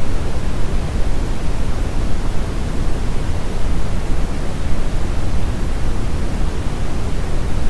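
Brown noise: a steady, even rushing hiss weighted heavily toward the low end, with no change or pattern.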